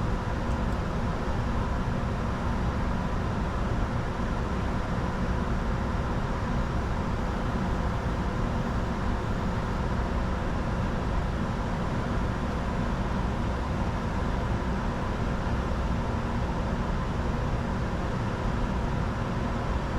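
Steady cockpit noise of a Bombardier Challenger 605 jet in flight on approach: an even rush of airflow and the hum of its turbofan engines, with faint steady tones running underneath.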